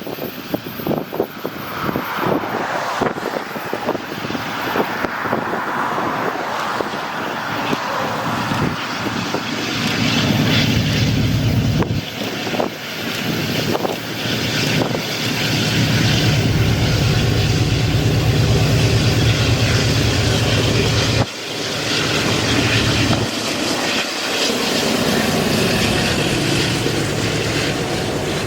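A GE DASH 9 diesel locomotive's engine drones, growing louder about ten seconds in as it approaches. Wind buffets the microphone in the opening seconds.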